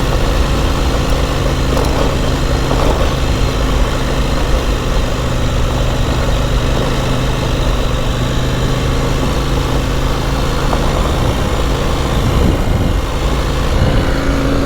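Adventure motorcycle engine running at a steady, unchanging speed while riding a soft dirt road, under a constant rush of wind and road noise.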